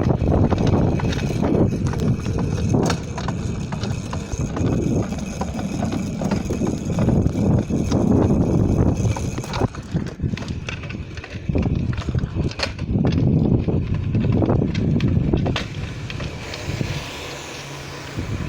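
A mountain bike being ridden over rough ground: wind rumbling on the microphone, with many clicks, knocks and rattles from the bike. It gets somewhat quieter near the end.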